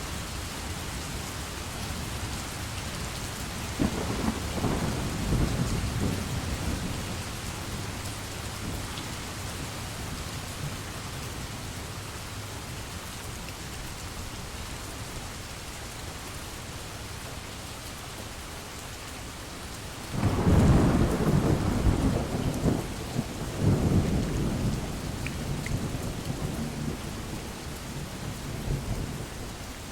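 Steady heavy rain hissing, with two rolls of thunder: one rumbling about four seconds in, and a louder, longer one starting about two-thirds of the way through.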